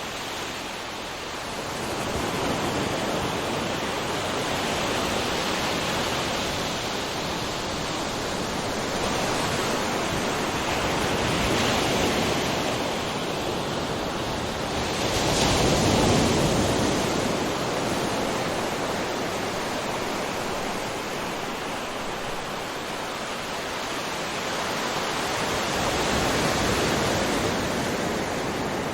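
Ocean waves crashing on a shore: a continuous wash of surf that swells and ebbs every few seconds, with the loudest wave breaking about halfway through.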